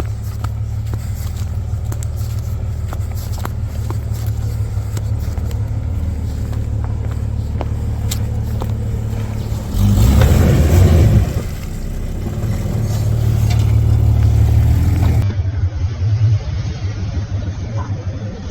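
Jeep engine running steadily at low revs, with a louder burst of revving about ten seconds in and a slower swell a couple of seconds later.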